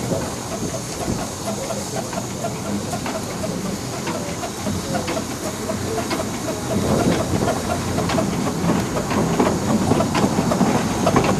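Steam train running on the railway: the clicks of wheels over the rails and a steady hiss of steam, growing louder about two-thirds of the way through as it comes closer.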